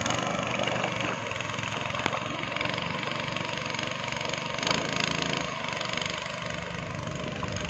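Speedboat engine running steadily, with a brief swell in level about two-thirds of the way through.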